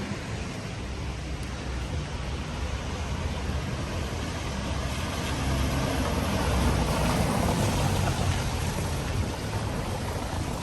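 Steady rain hiss with a vehicle passing on the wet road, its tyre swish swelling about halfway through and fading again.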